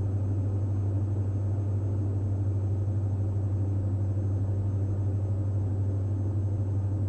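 The twin engines and propellers of a Diamond DA42 NG droning steadily in the cockpit: an even, low-pitched drone.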